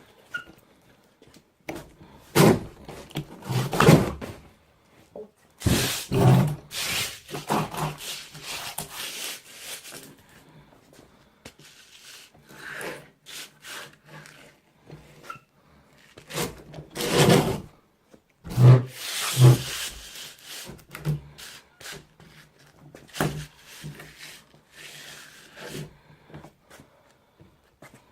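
Wooden door's bottom edge being swung back and forth over a sheet of 80-grit cloth-backed sandpaper held under it, in repeated scraping strokes with a few knocks, sanding down the edge that rubs on the floor.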